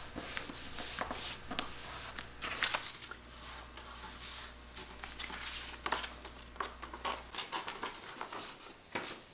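A sheet of paper being folded and creased by hand into a small book: irregular rustling and crinkling with short crackles.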